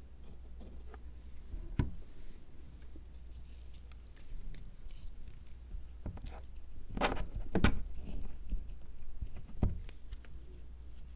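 Small objects being handled on a miniature zen garden diorama: scattered light taps and knocks with soft rustling between, the loudest cluster of knocks about seven seconds in, over a faint steady hum.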